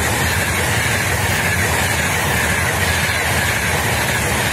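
Frecciarossa high-speed train passing through a station at speed: a steady, loud rush of wheels on rail and air along the carriages.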